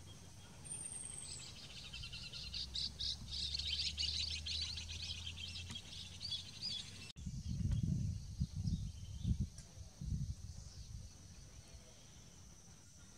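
A bird singing: one high falling whistle, then a fast run of high chirps lasting about four seconds. After an abrupt break about seven seconds in come several low rumbles and thumps.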